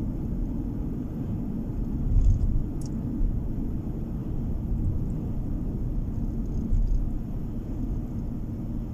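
Steady low rumble of a moving car's road and engine noise heard inside the cabin, with a brief louder bump and a couple of faint ticks about two to three seconds in.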